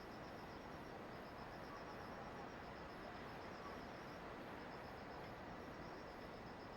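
Insects chirping in short runs of rapid, high-pitched pulses that repeat over and over, over a steady background hiss.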